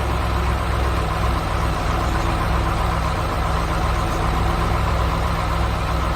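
Engine of a heavy construction vehicle running steadily at an even pitch, with a deep low hum.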